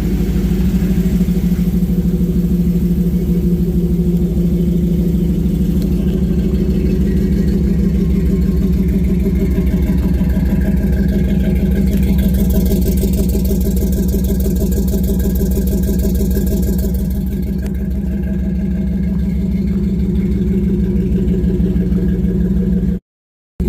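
Old Chevrolet pickup's engine running steadily at idle, a loud even low pulsing. The sound cuts out suddenly for about half a second near the end.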